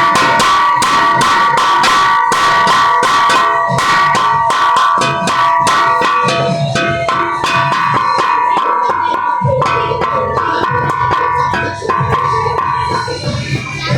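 Bells struck in quick succession, about three strikes a second, their ringing tones overlapping. From about halfway through a lower sound joins in.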